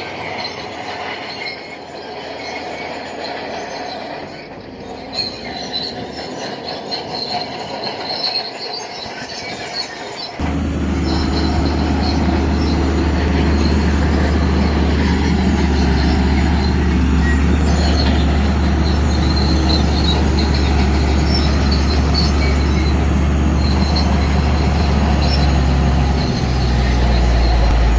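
Crawler bulldozer working, its steel tracks squealing and grinding. About ten seconds in, a loud, steady diesel engine drone starts suddenly and takes over.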